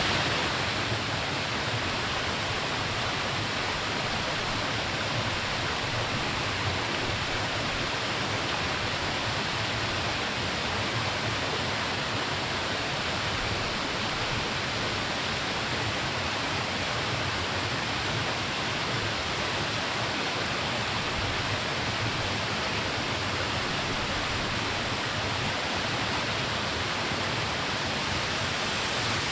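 Small waterfall pouring steadily, a constant, even rush of falling water.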